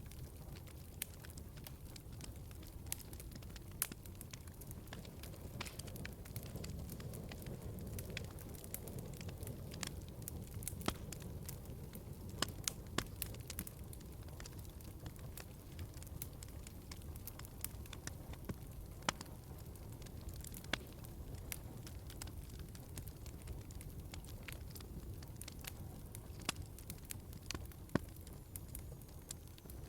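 Log fire in a fireplace crackling: a steady low rush of flames under frequent, irregular sharp pops and snaps.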